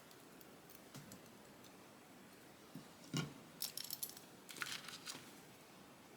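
Scissors cutting paper: a soft knock about three seconds in, then two short runs of quick, crisp snips.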